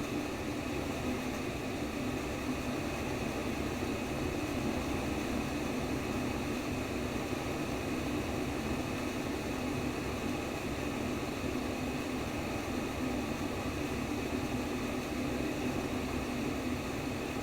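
Steady sleep white noise: an even, unchanging rushing noise with a low hum underneath.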